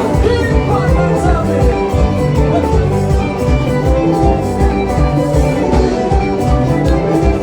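Band music with a steady beat and a pulsing bass line.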